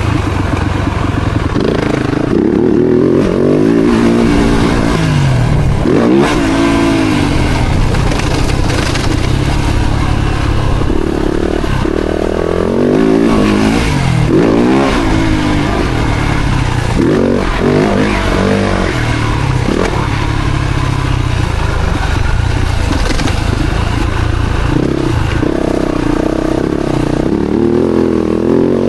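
Four-stroke single-cylinder motocross bike engine ridden hard, its pitch climbing and dropping again and again as the throttle is opened and shut, with a constant low rumble and rattle underneath.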